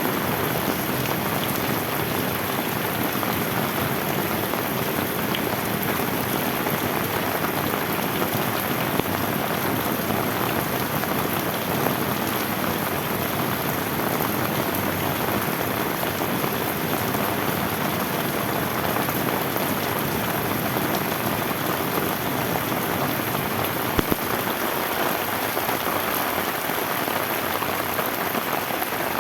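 Steady, heavy rain falling on bamboo, an even hiss of countless drops, with a few sharper single drop hits now and then.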